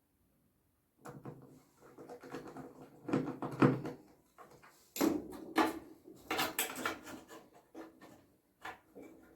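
Irregular knocking, scraping and clattering of tools and machine parts being handled, starting about a second in, with the loudest clatter in the middle.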